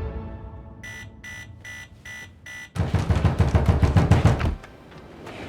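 An electronic alarm clock beeping five times in quick succession, the alarm for an early wake-up. It is followed by a louder low rumbling clatter lasting about two seconds.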